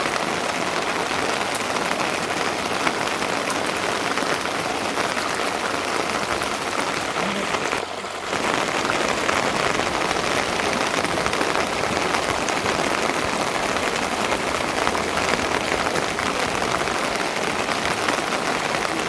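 Steady rain falling and pattering on surfaces, with a brief dip in level about eight seconds in.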